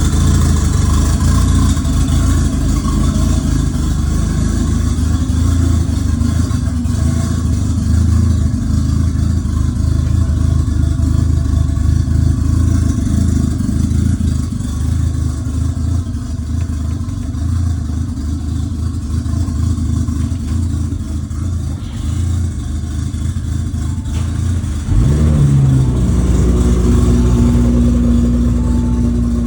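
Car engine running loudly and steadily. About 25 seconds in the sound changes abruptly: a short rising note, then a louder, steadier engine note.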